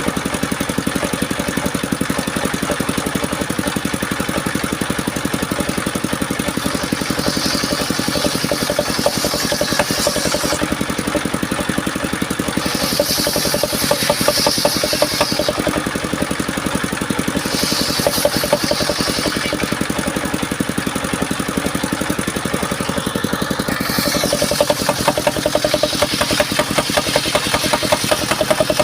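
Engine of a homemade circular-saw sawmill running steadily, with the saw blade cutting through mahogany in several spells of higher hissing whine every few seconds.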